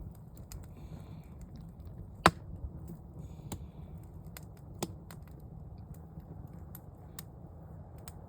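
Campfire crackling: wood burning with irregular sharp pops and snaps over a low steady rumble of the flames, the loudest pop about two seconds in and another just before five seconds.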